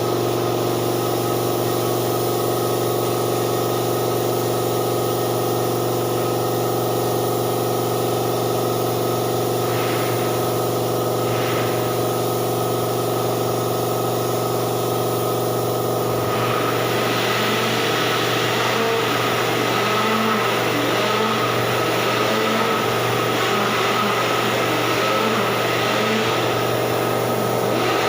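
Steady motor hum of a workshop air compressor running. About sixteen seconds in, a steady hiss joins it.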